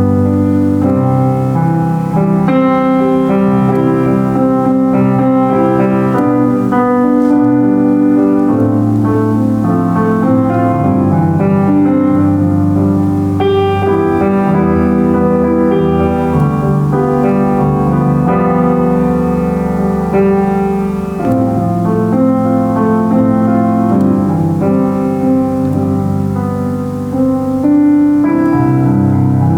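Solo piano played without a break: a melody over full chords and a moving bass line.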